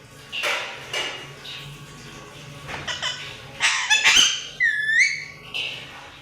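Pet parrot calling: a string of short chirps and squawks, a loud rapid rattling call about two-thirds of the way in, then a swooping whistle.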